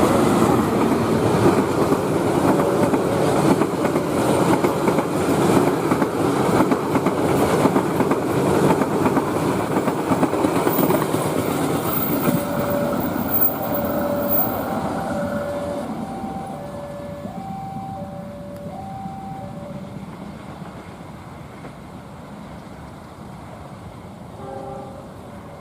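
Passenger train passing close by, its wheels clattering over the rail joints, then fading away over the second half. A two-note alternating tone sounds for several seconds as the train draws away.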